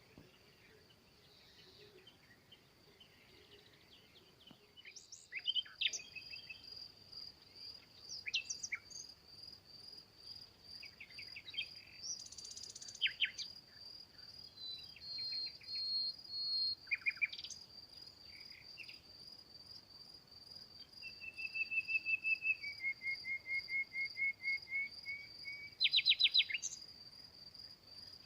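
Small songbirds singing and calling in short, varied phrases, including one long run of repeated notes that drops slightly in pitch. Under them, a steady high insect trill starts about five seconds in.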